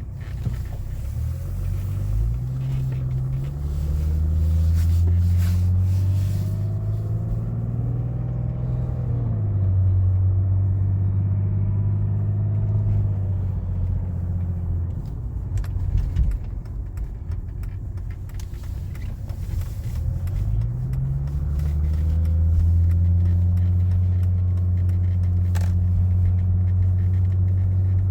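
Mercedes OM606 straight-six turbo diesel running under load, its low, even note rising in pitch about a second in and again around twenty seconds in, with a drop about nine seconds in and one knock around sixteen seconds in.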